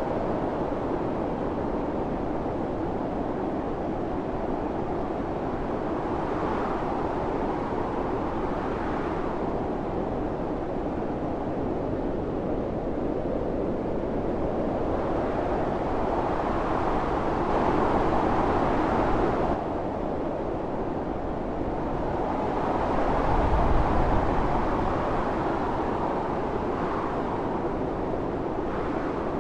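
Blizzard wind blowing in gusts: a steady rushing noise that swells and eases, dropping off suddenly about two-thirds through, then rising again into a strong gust with a low rumble.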